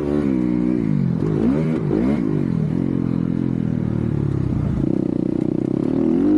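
Motocross dirt bike engine being ridden hard, its revs rising and falling with each throttle change and gear shift, then holding a steadier rev about five seconds in.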